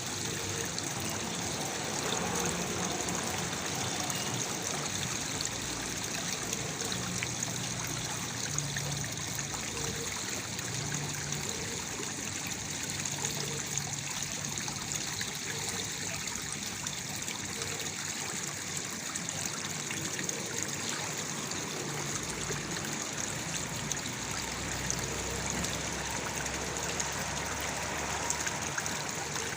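Waterfall: water pouring and splashing steadily into a pool, an even rushing sound throughout.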